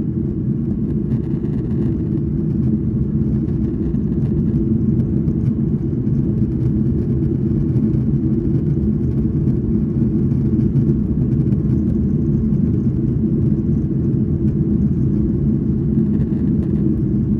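Delta Boeing 737's twin jet engines at takeoff power, a low, steady rumble that grows slightly louder.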